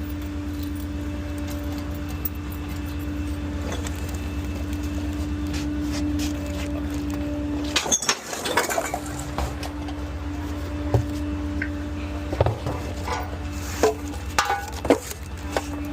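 Small rear-loader garbage truck running with a steady hum. About eight seconds in there is a brief rush of noise, and several knocks and clatters come near the end as trash and cans are handled.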